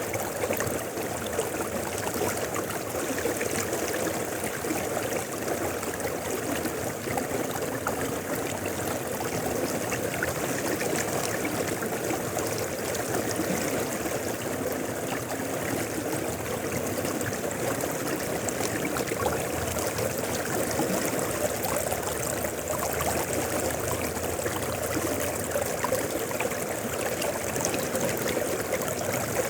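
A mountain river flowing over rocks, a steady rushing and gurgling of water with no breaks.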